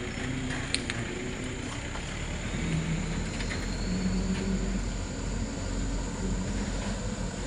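Truck engine running steadily under load, with rattling and creaking from the truck's body and mechanisms and scattered clicks throughout.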